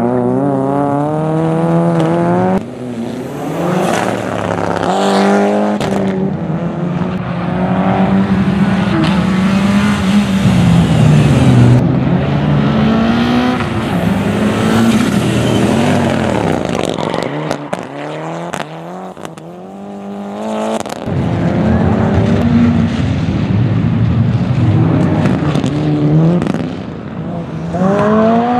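Rally car engines at full throttle: repeated climbs in revs, each broken by a sudden drop at a gear change, with a brief lull about two-thirds through before another loud run.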